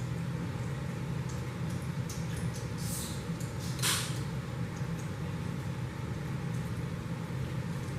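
Chicken wings being eaten: a few short eating noises, the loudest about four seconds in, over a steady low hum.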